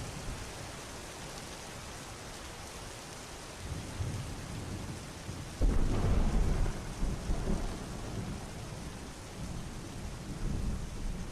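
Steady rain falling, with a sudden clap of thunder about five and a half seconds in that rumbles on for a few seconds, and a softer roll of thunder near the end.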